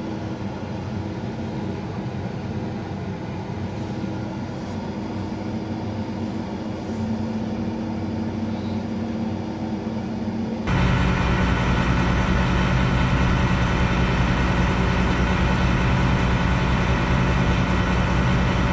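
Combine harvester engine running steadily with a low, even hum. About eleven seconds in it suddenly becomes louder and deeper and stays that way.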